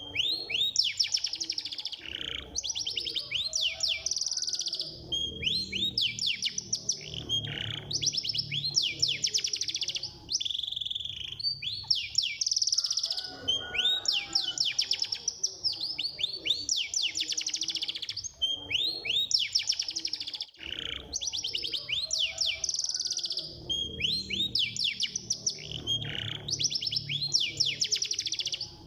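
Domestic canary singing a fast, continuous song of tightly packed trills and rolls. The phrases recur in a cycle about every ten seconds.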